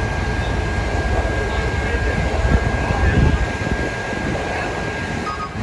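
Loud, steady low rumble of wind and idling engine noise on a city street, swelling a little near the middle, with a faint steady high whine throughout.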